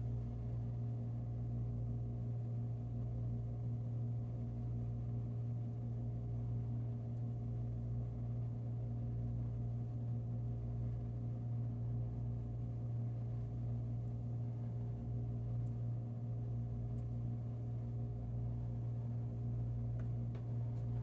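A steady low hum with several fainter higher tones above it, unchanging throughout.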